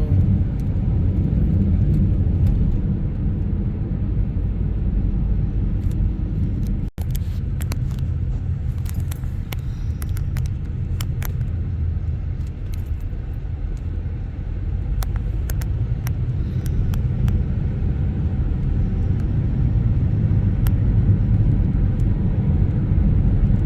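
Steady low road rumble of a moving car, heard from inside the cabin, with scattered faint ticks; the sound cuts out for an instant about seven seconds in.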